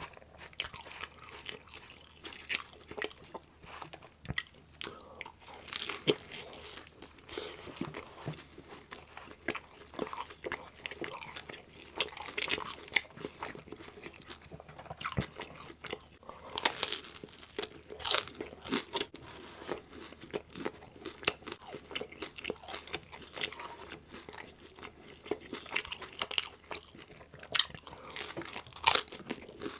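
Close-miked eating of a loaded meat pizza: bites into the crust and wet, smacking chewing, with frequent crisp crunches at irregular intervals and a few louder bites.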